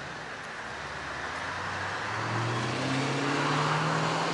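A car's engine and tyre noise grow steadily louder as it approaches, the engine pitch rising as it accelerates.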